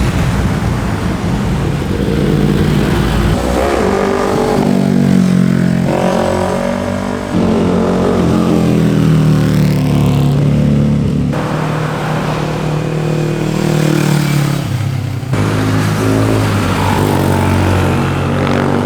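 Sport motorcycle engines revving and accelerating past, their pitch rising and falling through the gears, in several short clips joined by abrupt cuts.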